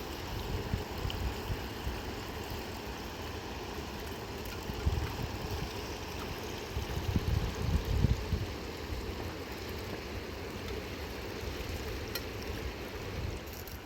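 River water rushing steadily, with a few louder low rumbles near the middle.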